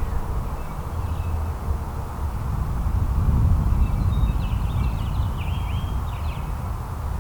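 Outdoor ambience with a steady low rumble, and a small songbird singing a quick run of high chirping notes from about four seconds in until near six and a half seconds.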